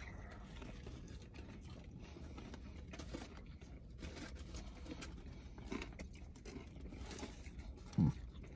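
Quiet chewing of sandwich mouthfuls with faint wrapper rustles and small clicks, over a low steady hum of the car's running engine in the cabin. A short hummed 'mm' from one of the eaters near the end.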